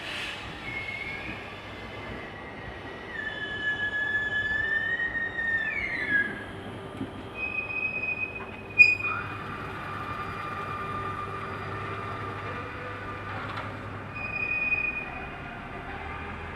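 Train wheels squealing on the rails as a train moves slowly through a station, several high squealing tones that shift in pitch over the rumble of the train. A sharp metallic click about nine seconds in.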